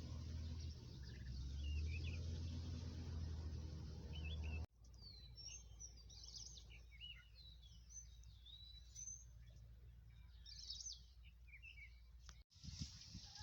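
Wild birds chirping and whistling, with short scattered calls. For the first few seconds a steady low rumble lies under a few chirps; then it cuts off suddenly, leaving the birdsong clearer over a faint hum.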